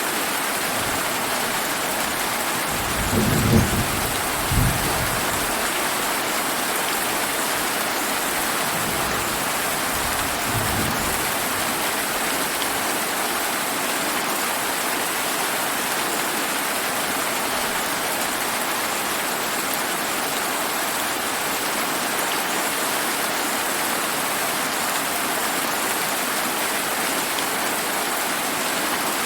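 Steady rain falling, with a low rumble of thunder about three seconds in that swells twice, and a fainter rumble around ten seconds in.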